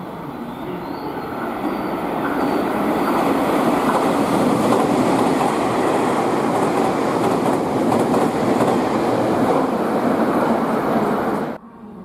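A Tobu limited express train running through the station at speed without stopping, on the outer through track. Its wheel and rail noise swells over the first few seconds, holds loud and steady, then cuts off suddenly near the end.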